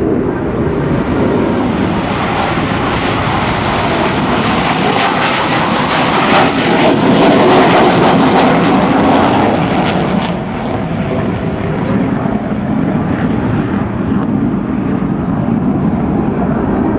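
Jet aircraft flying past. Its noise swells to a loud, crackling peak about five to ten seconds in, then eases off.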